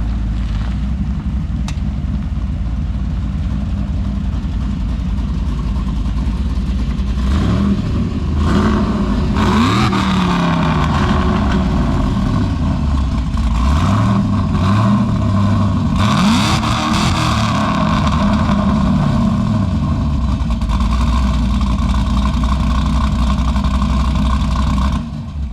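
Chevrolet Caprice PPV's supercharged V8 running steadily, then revved in several quick blips from about seven seconds in, the pitch rising and falling each time, before settling back to a steady run. It cuts off suddenly near the end.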